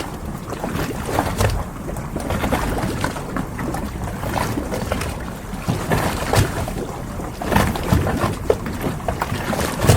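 Harbour ambience: water lapping around moored boats, with many small knocks and short creaks over a steady low rumble of wind.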